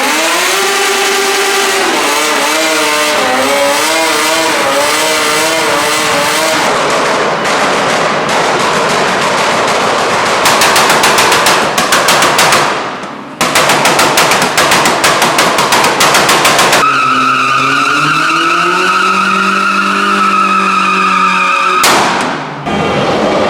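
A drifting car: engine revving hard with tyres squealing, then about six seconds of rapid, even stuttering crackle from the engine, then a long steady tyre squeal over a held engine note.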